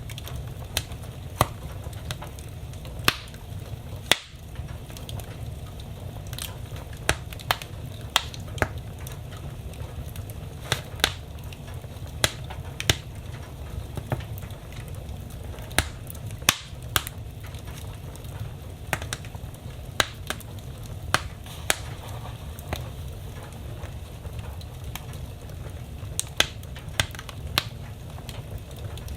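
Wood fire burning in a fireplace, crackling with sharp irregular pops about once a second, some much louder than the rest, over a low steady rumble.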